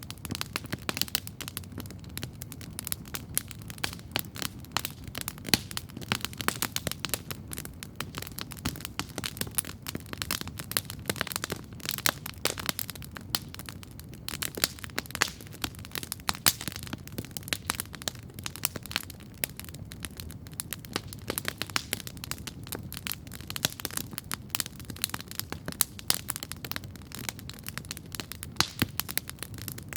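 Wood campfire crackling steadily, with many sharp pops and snaps every second over a low, steady rumble.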